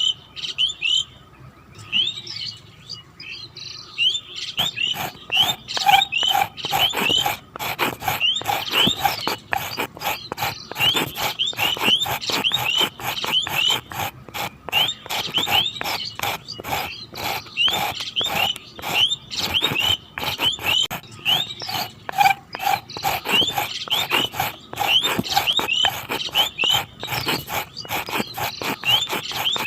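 Birds chirping: rapid, repeated short high chirps, several a second, mixed with clicking. The chirping picks up about four seconds in and then runs on densely.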